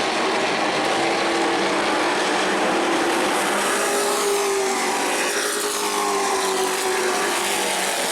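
Pack of racing trucks running flat out on a paved short oval, several engines at once. The engine pitch drops about halfway through as the trucks go by.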